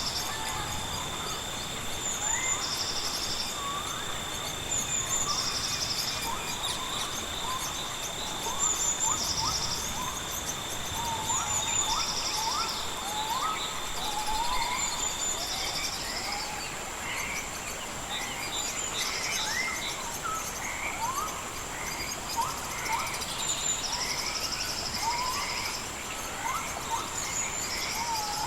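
Several birds singing together: many short rising chirps, and a higher buzzy trill that comes back every two to three seconds. Behind them are an even hiss and a steady high whine, with a second steady tone that stops about halfway through.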